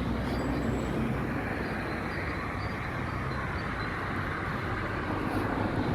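Steady noise of a car moving past, engine and tyres blended, with no distinct revving.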